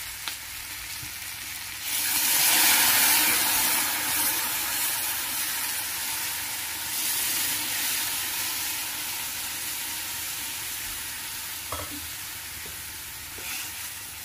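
Goat meat and potatoes frying in a kadai (wok) sizzle. About two seconds in, hot water goes into the hot pan and the sizzle jumps to a loud hiss, then slowly settles while the curry is stirred with a metal ladle and comes to the boil.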